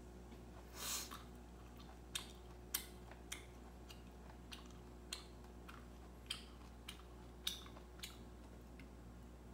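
Irregular soft crunching clicks of chewing, about ten in all and spaced unevenly, with one slightly longer crunch about a second in.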